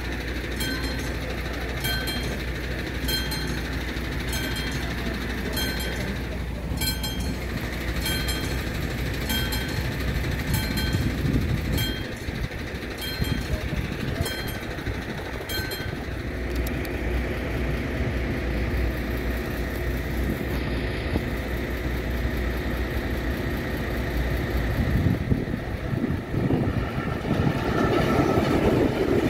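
Level-crossing warning bell (classic bell) ringing with evenly spaced strikes, a bit more than one a second, over the steady rumble of a passing train. The bell stops a little over halfway through, the rumbling noise carries on and grows louder near the end.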